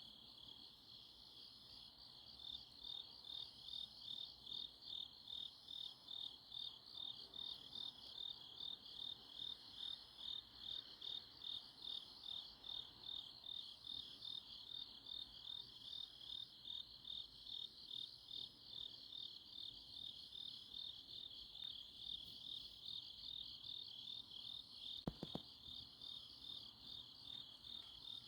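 Night chorus of crickets and other grass insects: a continuous high, rapidly pulsing trill that swells about twice a second, with a fainter, higher-pitched call repeating about every second and a half. A brief double click sounds near the end.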